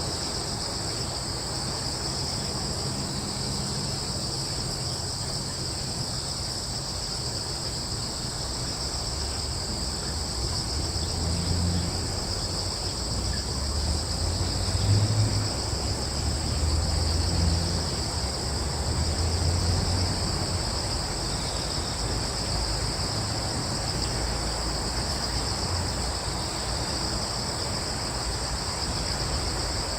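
Crickets chirring in a continuous chorus, a steady high-pitched trill in two pitches. A low rumble swells up about a third of the way in and fades again past the middle.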